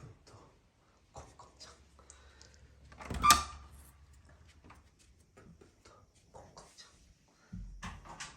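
Scattered light knocks and clicks in a small room, with one louder knock about three seconds in.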